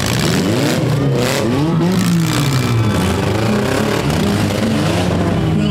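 Several four-cylinder demolition derby cars' engines running and revving together, their pitches rising and falling over one another.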